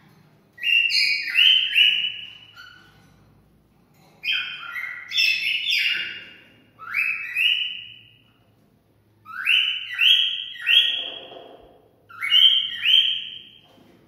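Cockatiel whistling its song in about five bursts, each of two or three quick rising whistled notes, a second or two apart. This is the courtship whistling that is played to stimulate cockatiels to breed.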